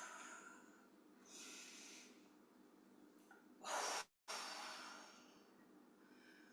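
A woman breathing slowly and deeply: a soft breath about a second in, then a louder, long breath out near the middle that trails off, and a faint breath near the end. These are deliberately extended exhalations of controlled breathing.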